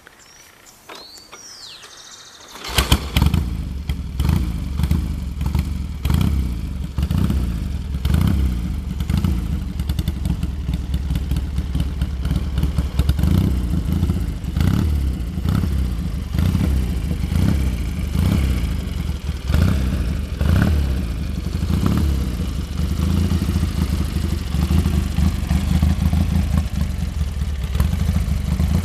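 1956 BSA Golden Flash's 650 cc parallel-twin engine starting suddenly about three seconds in, then running with the throttle blipped repeatedly. A few faint high chirps come before it starts.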